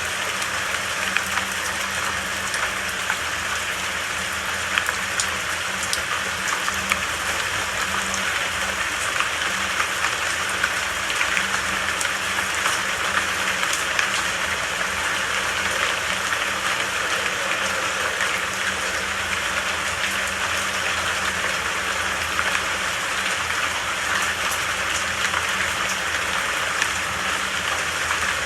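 Steady rainfall: a constant hiss of rain with many small drops pattering.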